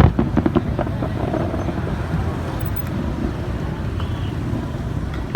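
Steady low rumble of wind on the microphone and crowd murmur at a fireworks display, with a few firework crackles in the first half-second and a single sharp bang near the end.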